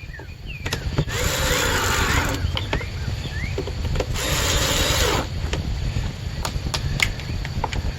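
Cordless drill-driver run twice, about a second each time, driving in the two screws that hold the bracket on, with small clicks of handling between.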